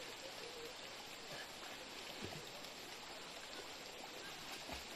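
A river flowing with a faint, steady rush of water, and a couple of small plops about two seconds in and near the end.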